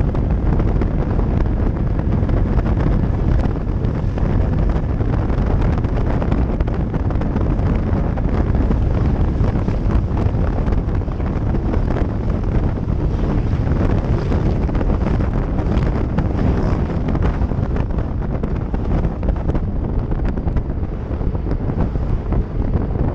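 Heavy, steady wind buffeting on the microphone of a moving motorcycle, with the bike's engine and road noise low underneath.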